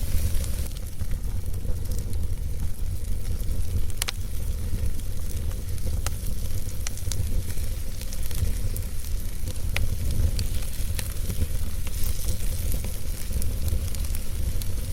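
Wood fire burning in a fireplace: a steady low rumble and hiss with scattered sharp crackles and pops from the logs, the sharpest about four seconds in.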